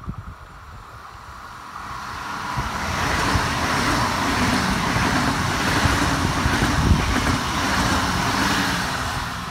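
Red DB S-Bahn electric multiple unit passing close by: wheels rolling on the rails, the noise building about two seconds in, loudest as the cars go past, and easing off near the end.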